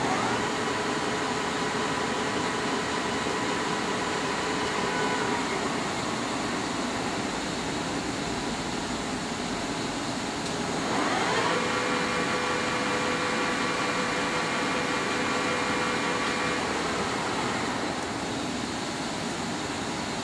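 Poreba TPK-80 engine lathe's geared headstock running. The spindle spins up with a rising whine at the start, runs steadily at about 160 RPM and winds down about five seconds in. It spins up again about ten seconds in, runs steadily, and winds down about sixteen seconds in, over a steady mechanical hum.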